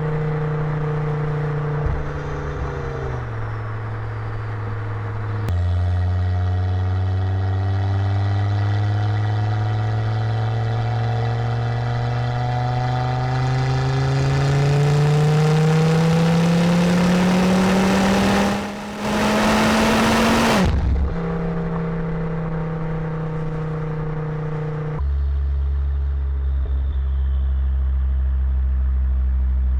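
2006 Volvo S60R's turbocharged inline-five running through a custom Eurosport exhaust with a 3-inch downpipe. It holds steady, drops in pitch a few seconds in, then pulls hard with a rising pitch for about seven seconds. A brief loud rushing noise follows, then it settles into steady running, with a lower, deeper note near the end.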